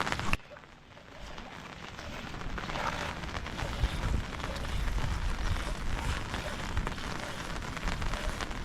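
Steady rain, which drops away suddenly shortly after the start and builds back up, with a low rumble underneath in the second half.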